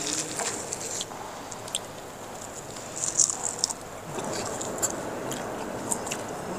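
A man chewing a mouthful of bhatura, the deep-fried bread of chole bhature, and licking his fingers, with a few short mouth smacks.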